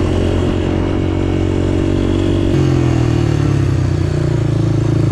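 Small off-road engine running steadily under way, its pitch stepping up about halfway through as the throttle or gear changes.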